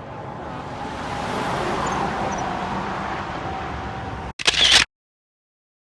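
Road vehicle noise swelling over about two seconds and then holding steady, with a faint steady tone under it. It stops abruptly, a short loud burst of noise follows, and then the sound cuts off to silence.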